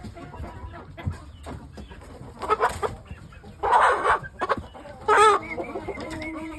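Shamo chickens clucking and calling in short separate calls, with a loud, harsh burst just under four seconds in and another sharp call a little after five seconds.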